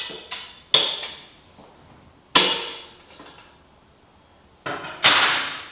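Sharp metallic clanks with short ringing tails from a Polaris AXYS snowmobile's exhaust pipe and its springs as the pipe is worked free and pulled off. There are a few quick clanks in the first second, then louder single ones about halfway through and near the end.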